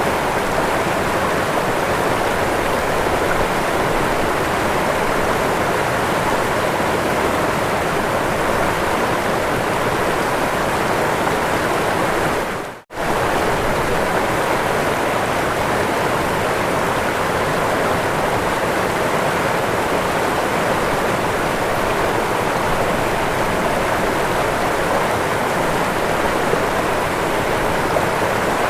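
Waterfall: a steady, dense rush of falling water, broken once about halfway through by a split-second cut to near silence before the rush resumes.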